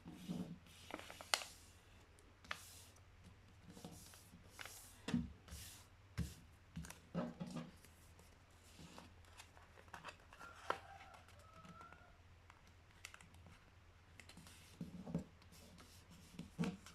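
A sheet of paper being folded and creased by hand, with irregular rustles and short, sharp crease strokes over a faint steady hum.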